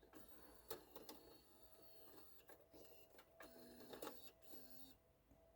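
Faint mechanical clicks and a short, low motor whir from a car stereo's CD slot loader, ejecting the disc.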